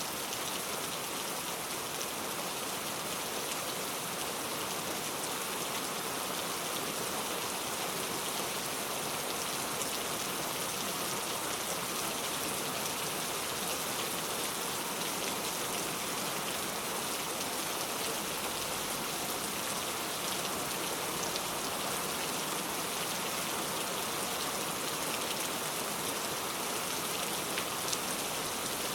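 Steady rainfall, an even hiss with scattered drops.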